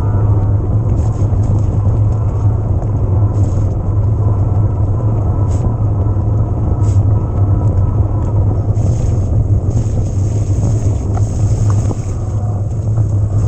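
Riding noise of an e-mountain bike on a trail: a steady low rumble of wind and tyres, with scattered clicks and rattles.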